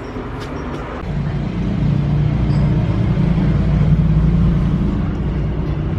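A low motor rumble that swells about a second in and then holds steady.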